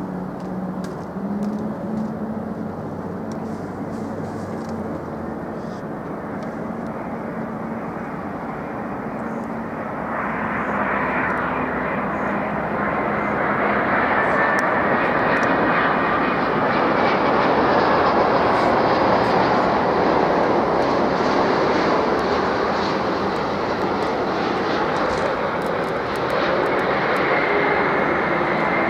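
Jet airliner engine noise, a steady rush that swells from about ten seconds in, grows loudest about halfway through and stays loud as the aircraft passes close by.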